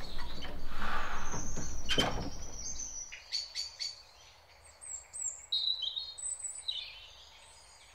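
Small birds chirping in short, high notes, a string of them from about three seconds in. A single thud sounds about two seconds in.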